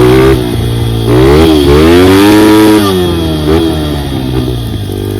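Dirt bike engine being ridden, revving up and easing off several times as the throttle is opened and closed, settling lower near the end.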